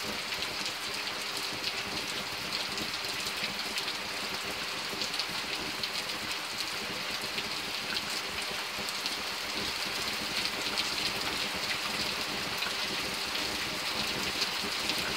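Heavy rain coming down hard and steady: a dense, even hiss with many small drop impacts close by.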